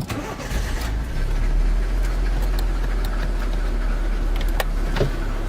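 Car engine idling steadily with a low rumble, with a couple of short clicks near the end.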